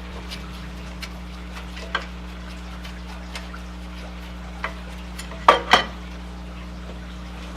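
Metal tools and small parts clicking and clinking as they are handled, with a louder double clank about five and a half seconds in, over a steady low hum.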